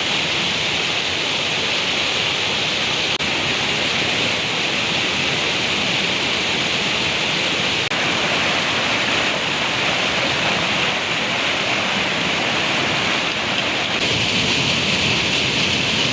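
Water rushing out through a breach in an irrigation canal's embankment, a loud, steady, unbroken rush.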